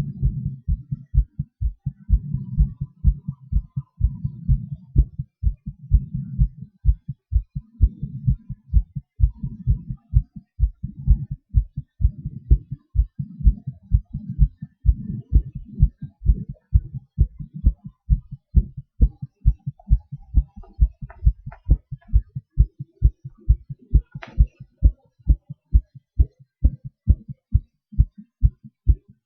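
A human heartbeat heard close up through the chest, a rapid, steady run of low lub-dub beats.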